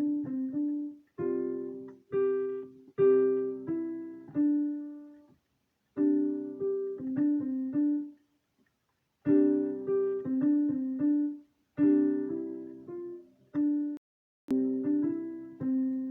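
A piano playing a simple melody over chords in short phrases, stopping briefly between them: a piece being sight-read.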